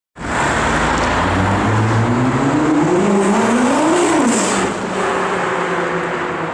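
Nissan GT-R's twin-turbo V6 with an aftermarket exhaust accelerating hard past. The engine note climbs steadily for a couple of seconds, drops sharply about four seconds in, then carries on lower and a little quieter as the car pulls away.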